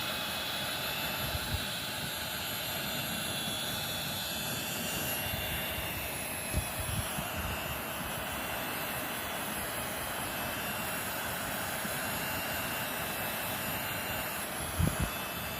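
Hair dryer blowing steadily: a constant rush of air with a faint high whine, its sound shifting slightly about five seconds in. A few soft low bumps are heard, around two, seven and fifteen seconds in.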